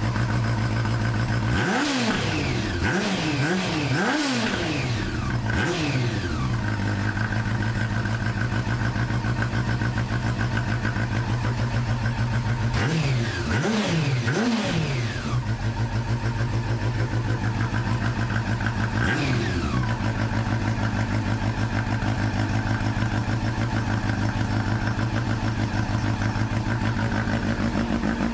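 Engine exhaust through an aftermarket TSR muffler: a steady idle blipped with quick throttle revs that rise and fall straight back, about four in a row early on, two more around the middle and one a little later.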